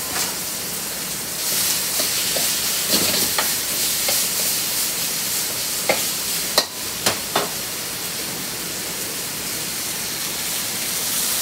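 Ground pork sizzling as it fries in a hot wok over a gas burner, a steady hiss. A few sharp clicks of the stirring utensil against the wok come about six to seven and a half seconds in.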